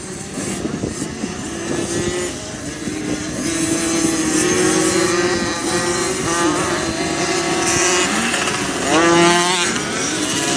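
Motocross dirt bikes running on a track, their engines rising and falling in pitch as they accelerate and ease off, several at once. The loudest moment comes about nine seconds in, when one bike revs up in pitch.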